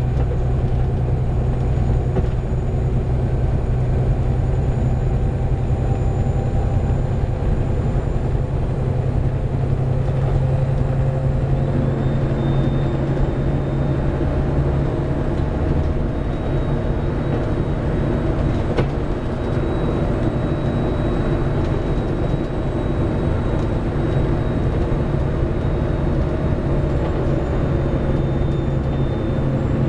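Interior sound of a Volvo B7TL double-decker bus under way, its six-cylinder diesel running steadily. A faint high whine joins about halfway through.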